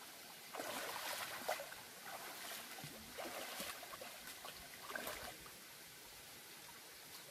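Water splashing and sloshing in a shallow stream as stones are lifted and turned over by hand, with a few sharper knocks, for about five seconds before it settles to a faint hiss.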